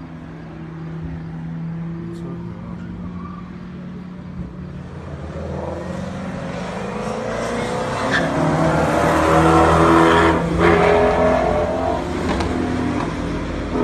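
Car engine running hard on a race track, its note steady at first, then getting louder about halfway through with a rising hiss of tyre and wind noise before easing slightly near the end.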